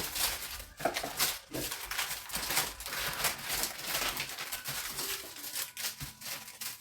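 Small packets of baking ingredients such as vanilla sugar and baking powder being handled and shuffled, with an irregular run of crinkling and rustling.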